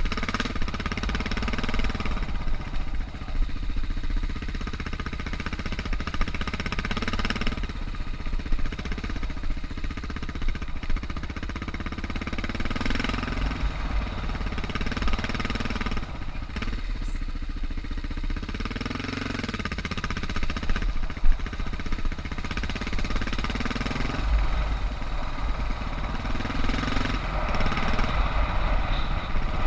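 Suzuki DR650's single-cylinder engine running under way on a dirt trail, its revs rising and falling over and over.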